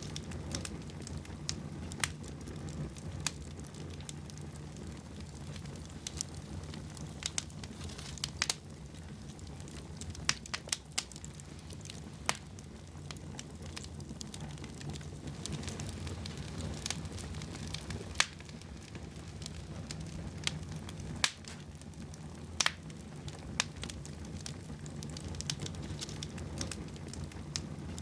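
Wood fire burning in a fireplace: a steady low rumble of the flames with irregular sharp crackles and pops, a few every second or two, bunched together around the middle.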